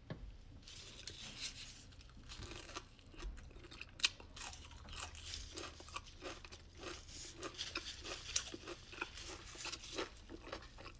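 A person biting into and chewing crunchy food close to the microphone, with many irregular crunches throughout.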